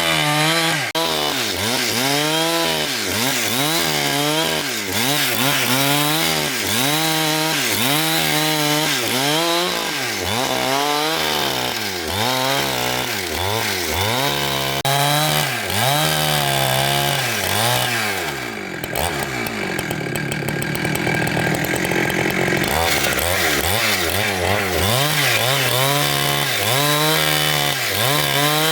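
Chainsaw engine running under cutting load, its pitch rising and falling in a steady cycle about once a second. About two-thirds of the way in it settles to a lower, steadier note for a few seconds, then the rising and falling picks up again.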